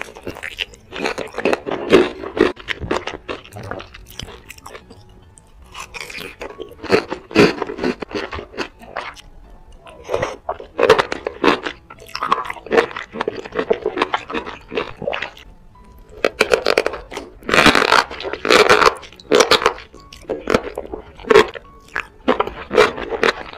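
Close-miked eating sounds: wet chewing and squishing of a chili-sauced dumpling and enoki mushrooms, full of small sharp clicks and lip smacks, with louder bursts about two-thirds of the way through.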